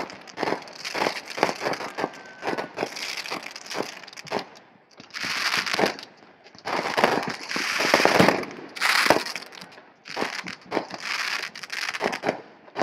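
Fireworks going off: rapid pops and cracks, with two longer stretches of hissing crackle in the middle, the loudest about eight seconds in.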